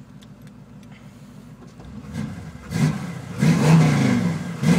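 1976 Chevy Nova's 383 stroker V8 through Flowmaster 40 Series mufflers, idling steadily, then revved in a few quick throttle blips from about two seconds in, the engine pitch rising and falling with each one; the owner calls it pretty tough.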